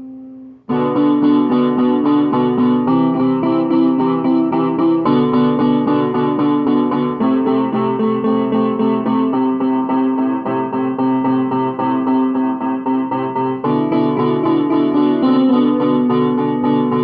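Piano playing quick repeated notes over chords that change every couple of seconds, starting up again after a brief break about a second in. Recorded through a phone's microphone.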